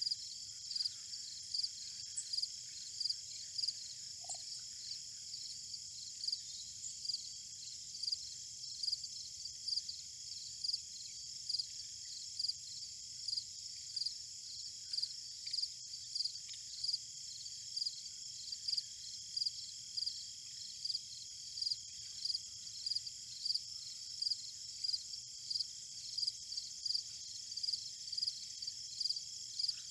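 Field insects calling: a steady high trill under a regular chirp repeating about twice a second.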